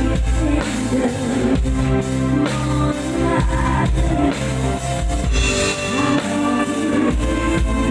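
Live band music with drum kit, bass and guitar played loud and steady over column PA speakers, with a regular kick-drum beat.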